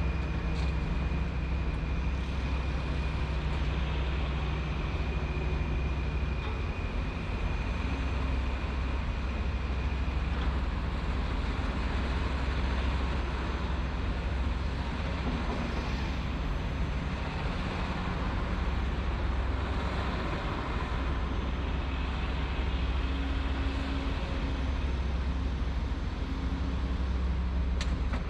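Heavy construction machinery's diesel engine running steadily with a deep low rumble. A thin high whine runs over it for roughly the first ten seconds.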